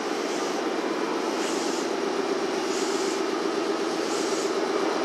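A red Meitetsu electric train standing at an underground platform, its equipment giving a steady drone. A short hiss repeats about every second and a half.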